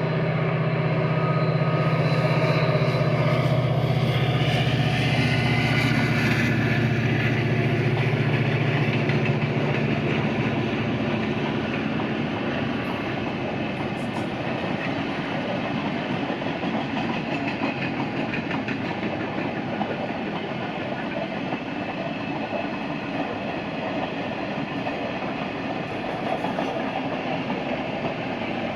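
Train passing on the line: a locomotive's low, steady drone for the first ten seconds or so, giving way to the continuous rolling rattle and clatter of the cars going by.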